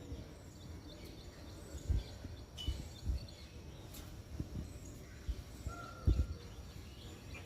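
Outdoor background noise with faint bird chirps and one short faint call just before the end. Several soft, low thumps on the microphone are spread through it.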